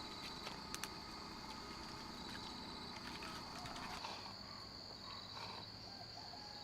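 Steady high-pitched drone of rainforest insects, with a few faint clicks under a second in.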